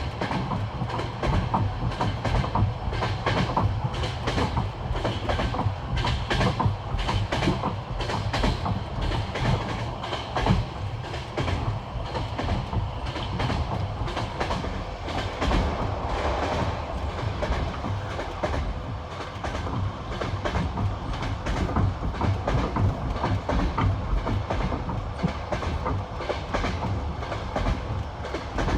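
Passenger train wheels clattering over the rail joints of jointed track in a fast, steady clickety-clack, over a constant low rumble of the carriage, heard from inside the train.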